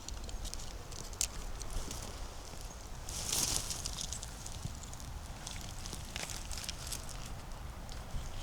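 Footsteps on the forest floor, with dry leaves and twigs crackling underfoot and a louder rustle about three seconds in.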